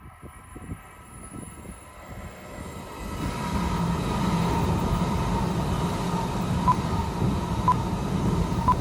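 A Joetsu Shinkansen Toki train approaching. Its rushing rumble builds at about three seconds in and then holds steady and loud, with a few faint clicks about a second apart near the end.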